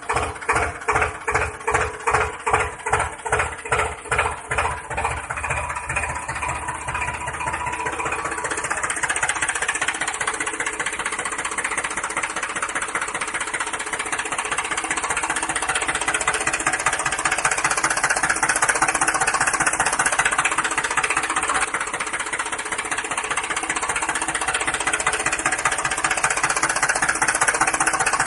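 Tractor engine chugging in slow, even beats that quicken over the first several seconds until it runs as a steady drone.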